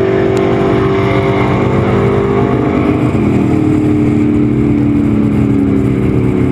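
A 1965 Ford Mustang drag car's engine running loudly at a fast idle at the starting line. Its engine speed drops a step about three seconds in, then holds steady.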